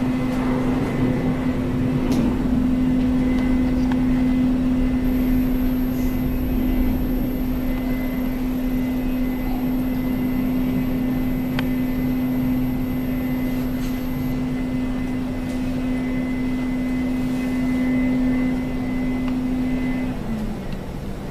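Jet airliner's engines at takeoff power, a steady loud drone with a low hum that falls in pitch near the end as the jet moves away.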